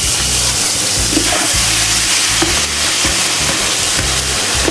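Onion-tomato masala sizzling in hot oil in an aluminium pot as marinated chicken is tipped in from a plastic bowl.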